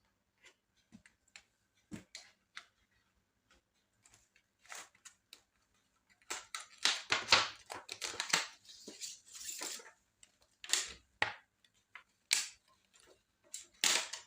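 Small plastic clicks and knocks from laptop parts being handled, with a dense stretch of scraping and rustling from about six and a half to ten seconds in, then a few sharper clicks.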